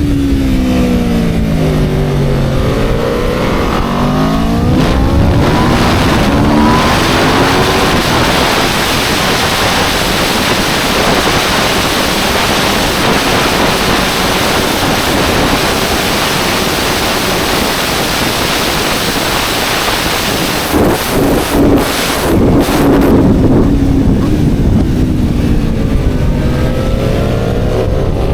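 Aprilia RSV4's V4 engine heard onboard at track speed. Its note falls and climbs through the revs as the bike slows for a corner and pulls away. For most of the middle, wind rushing over the microphone at high speed drowns the engine, before the engine note falls again near the end.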